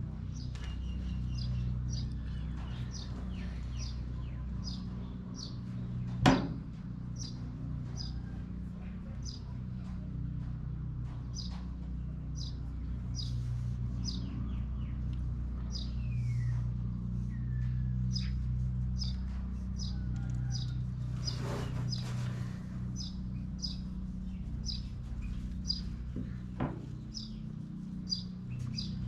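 A bird calling with a short high chirp repeated evenly, about three times every two seconds, over a steady low hum. A single sharp knock about six seconds in, a brief rushing noise a little past twenty seconds, and a few faint clicks near the end.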